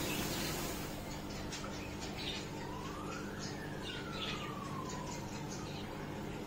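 A siren wailing slowly down and up in pitch, one long glide every few seconds, with small birds chirping in short calls over a steady low hum.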